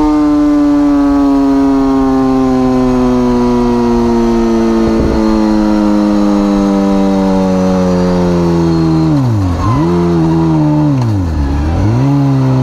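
Superbike engine running loud at high revs, its pitch sinking slowly and steadily. Near the end the revs twice drop sharply and pick up again.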